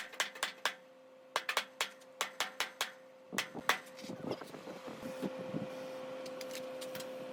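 Irregular sharp clicks and knocks, like small hand work on hard parts, over a steady machine hum that fades about a second in and returns after about three seconds.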